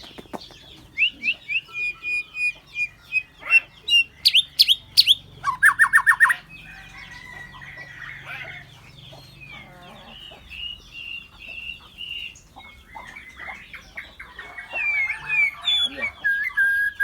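Birds singing and calling: a busy mix of chirps, quick rising strokes and short whistled notes.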